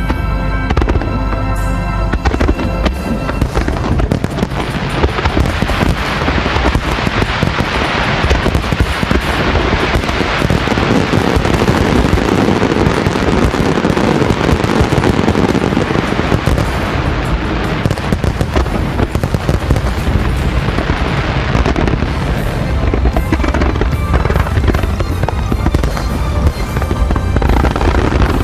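Large fireworks display bursting and crackling in a dense barrage, with music playing along. The crackle thickens about four seconds in and eases off near the end, where the music's sustained notes come through more clearly.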